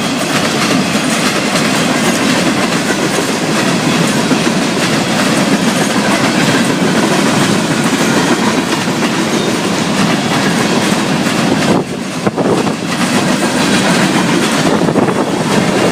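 Florida East Coast Railway freight cars rolling past close by, a loud steady rumble of steel wheels on the rails, briefly easing about twelve seconds in.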